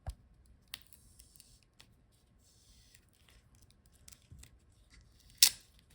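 Small clicks and a soft crinkling rustle as the thin shield over a laptop's RAM module is lifted by hand, with one sharp click near the end.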